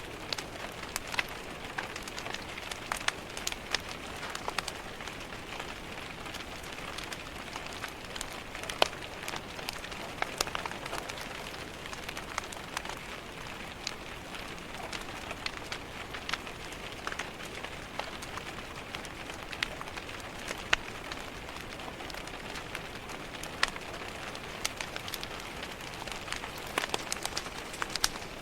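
Steady rain tapping on window glass, mixed with a log fire crackling, with sharp pops scattered throughout.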